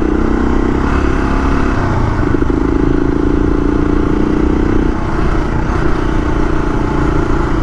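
Honda XL500's single-cylinder four-stroke engine running as the motorcycle is ridden, with wind rush on the helmet microphone. The engine note shifts in pitch a few times, about a second in, around two and a half seconds and near five seconds in.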